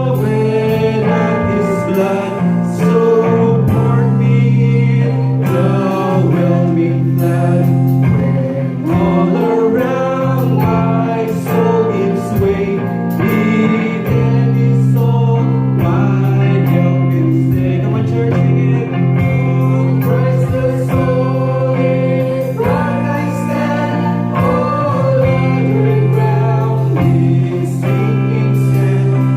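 Group of voices singing a hymn over instrumental accompaniment with regular strummed chords.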